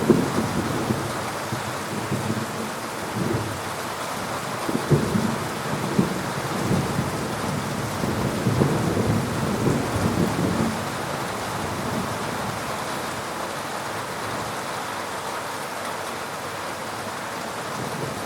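Heavy rain pouring steadily, with thunder rumbling in uneven surges through the first two-thirds and dying away after about eleven seconds.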